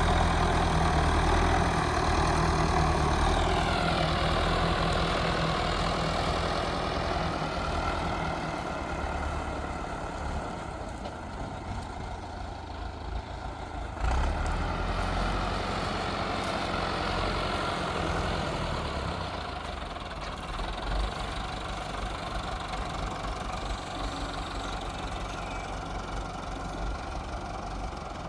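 Heavy farm-machine engine running steadily. Its pitch drops a few seconds in and it slowly grows quieter, with a single sharp knock about halfway through.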